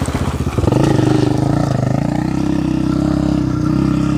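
Dirt bike engine accelerating hard: its slow chugging beat jumps to a louder, higher note about half a second in, then stays held at high revs.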